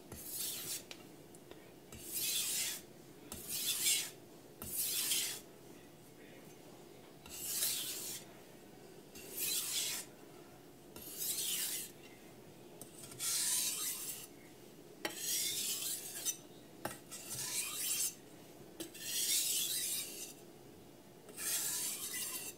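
Carbon steel knife blade scraped along a wet Kramer by Zwilling glass 1000 grit whetstone: about a dozen hissing sharpening strokes, roughly one every two seconds, a final pass on both sides of the edge.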